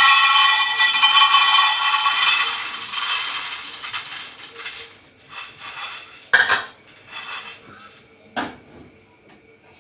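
Metal cookware clattering: a loud clang that rings on with a clear metallic tone and fades over about four seconds, then two shorter knocks about six and eight seconds in.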